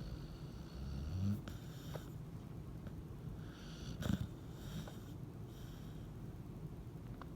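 Pet dog snoring in its sleep: a low snore that rises in pitch about a second in, a short sharp breath about four seconds in, and faint whistling breaths between.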